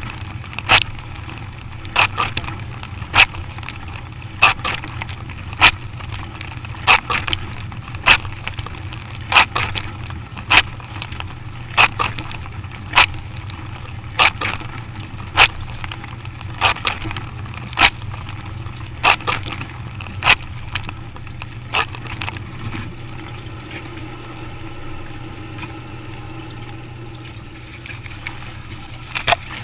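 A machine running with a steady low hum and a sharp click or knock about once a second. The knocks pause for several seconds near the end, then one more comes.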